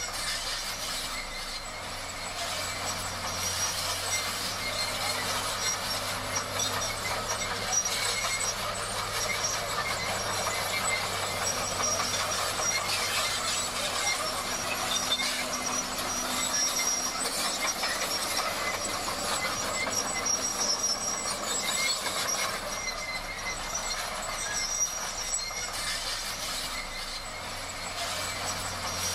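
Komatsu D58 crawler bulldozer at work: a steady clattering mechanical run from its tracks and engine, with a high squeal that comes and goes.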